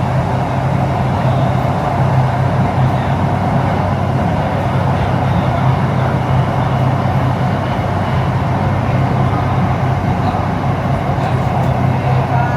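Inside a HCMC Metro Line 1 electric train car running between stations: a steady, even hum and rumble of the train in motion.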